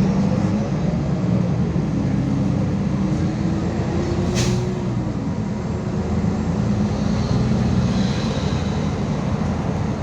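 MAZ 216 city bus running on the road, heard from on board: a steady engine and drivetrain drone whose pitch drifts up and then falls, with one short hiss of air about four and a half seconds in.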